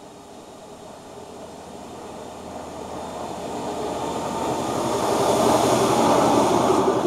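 Isle of Man Railway narrow-gauge train approaching, growing steadily louder and loudest near the end as it draws close and passes.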